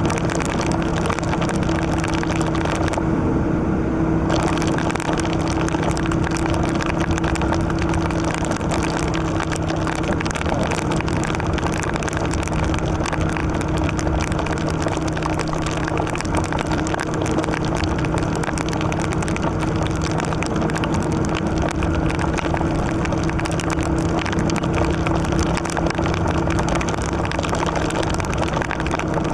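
Yamaha Virago XV750's air-cooled V-twin engine pulling at steady revs while cruising, under a constant rush of wind and wet-road tyre noise in the rain. The high rushing briefly dips about three seconds in.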